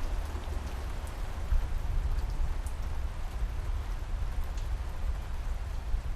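Steady rainfall, an even hiss with scattered sharp drop ticks, over a constant low rumble.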